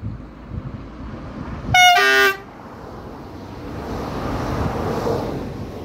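TER Régiolis multiple unit sounding its two-tone horn about two seconds in: a short higher note dropping to a lower one, about half a second in all. The train's rolling noise then builds as it passes close by and eases slightly near the end.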